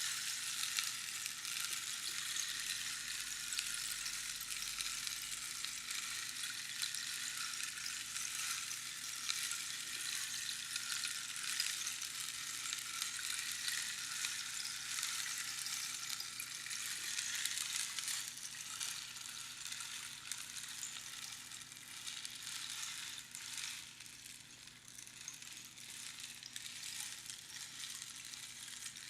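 Rainstick being tipped, its pebbles trickling down the tube past the pins inside: a steady, dense rattling hiss like falling rain. It eases a little in the last few seconds.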